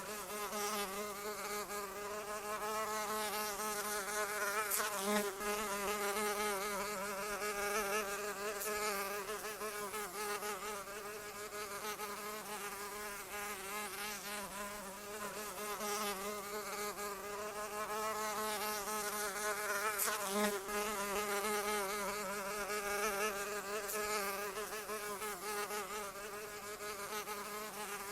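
Flying insect's wings buzzing in a continuous drone whose pitch wavers constantly, as if circling close by. There are faint clicks about five seconds in and again about twenty seconds in.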